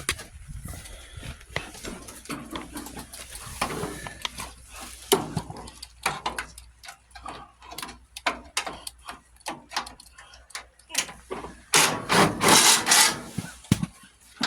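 A tool working a bolt loose on an old lawn tractor: scattered ratchet-like clicks and metal knocks, then a louder, dense rattling burst lasting over a second about twelve seconds in.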